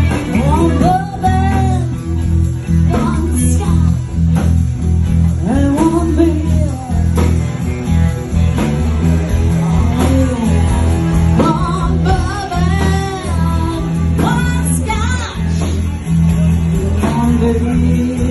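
Live band playing a blues-rock number, with lead guitar bending notes over steady bass and drums.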